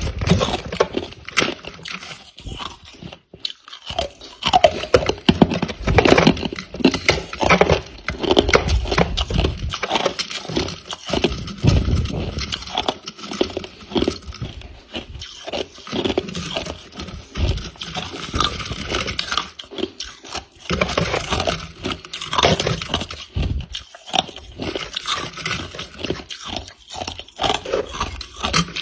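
Close-miked biting and chewing of crunchy, squeaky freezer frost, a rapid run of irregular crackles and crunches with a brief pause about three seconds in.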